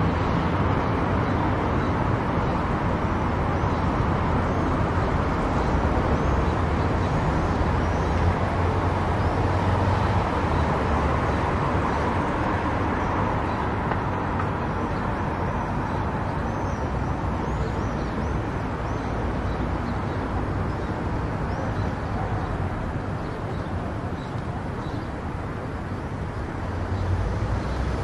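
Steady road noise of a car driving at highway speed: tyre roar and low engine rumble, easing a little in level past the middle and picking up again near the end.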